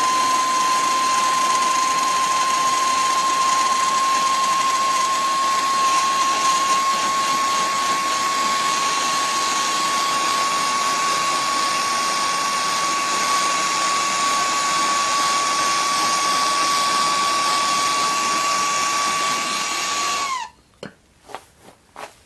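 Handheld heat torch blowing steadily, shrinking heat-shrink tubing over a freshly crimped battery-cable lug: a loud even hiss with a single steady whine. It shuts off about twenty seconds in, the whine dropping in pitch as it stops, followed by a few light handling clicks.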